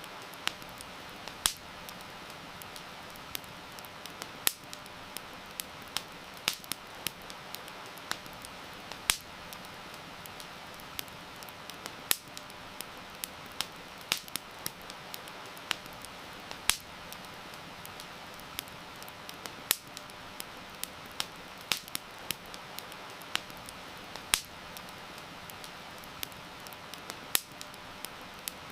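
Wood campfire crackling, with many sharp pops at irregular moments, over a steady hiss of heavy rain.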